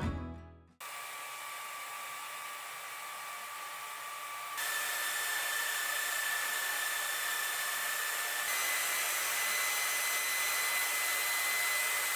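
Panasonic Nanocare EH-NA0K hair dryer blowing, switched on about a second in. It steps up to a stronger airflow setting twice, each step louder and with a higher-pitched motor whine over the rush of air.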